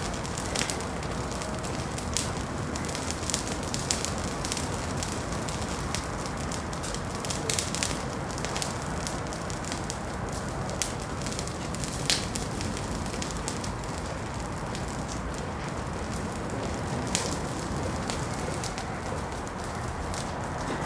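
Wood fire in a fireplace crackling: scattered sharp pops and snaps, thicker in the first half, with one louder snap about twelve seconds in, over a steady low rush.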